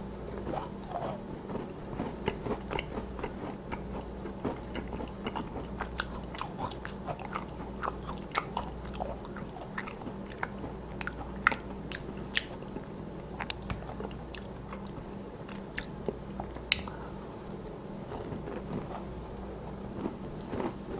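Close-miked chewing of a macaron: a steady stream of small, sharp crackles from the crisp shell along with soft mouth sounds, the crackles thinning out over the last few seconds.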